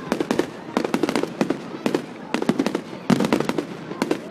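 Fireworks going off in rapid strings of sharp bangs and crackles, several quick reports per cluster, with new clusters coming every second or so.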